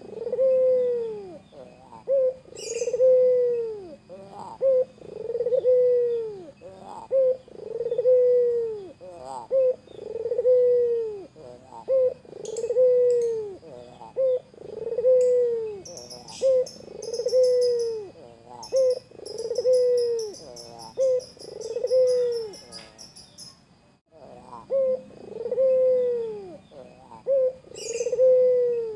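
White Barbary dove cooing over and over: a short note or two, then a long arched coo, repeated about every two and a half seconds, with one short pause near the end. Faint high chirping from other small birds joins in the middle.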